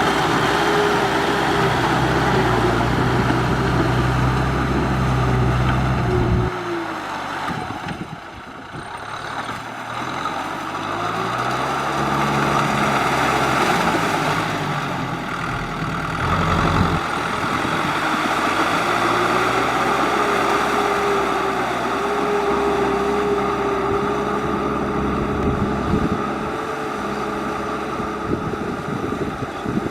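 Tractor engine working hard, then easing off about six seconds in. It revs back up over the next several seconds and runs steadily under load again.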